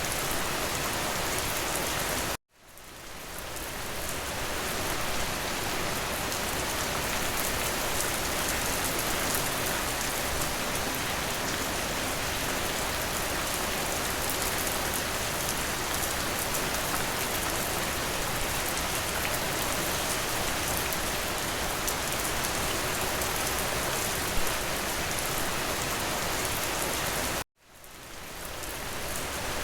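Steady heavy rain falling, a dense even patter. It cuts out abruptly about two and a half seconds in and again near the end, each time fading back up over a second or so.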